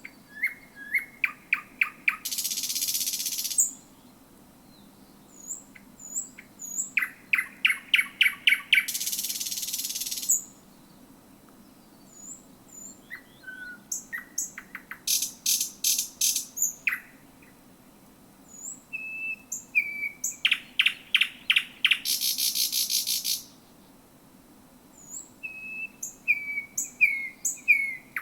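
Thrush nightingale singing: five phrases of sharp, rapidly repeated clacking notes, most of them ending in a dry rattling buzz about a second long, with short high whistles between phrases.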